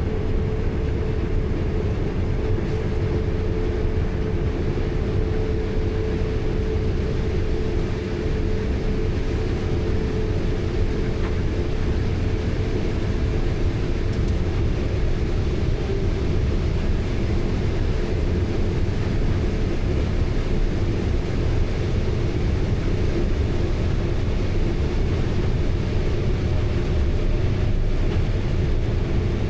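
Large diesel farm machinery running steadily: a constant low rumble with a steady hum above it.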